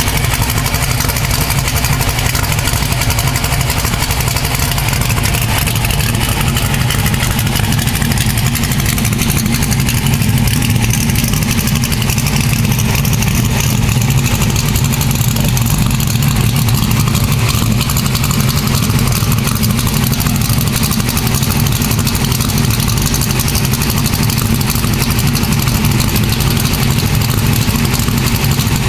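Engine exhaust running through a full 3-inch exhaust system with Goerlich X107 mufflers, giving a low, steady exhaust note.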